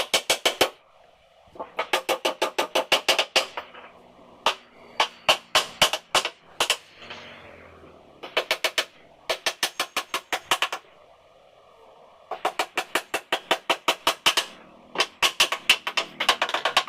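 Hammer driving nails into a wooden sofa frame: rapid runs of sharp strikes, about seven a second, in bursts of a second or two with short pauses between.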